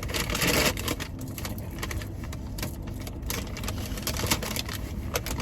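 Close-up crunchy chewing of a fried Korean cheese corn dog, a quick irregular crackle of many small crunches, over a steady low hum from the car's air conditioning.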